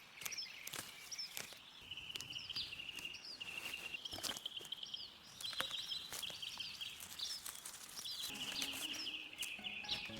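Animal chirping: high calls repeating about once or twice a second over a fast trilling buzz, with scattered sharp clicks.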